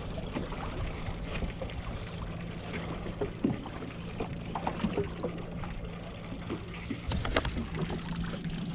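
Boat engine running steadily with a low hum, with scattered light clicks and knocks from tackle or the boat.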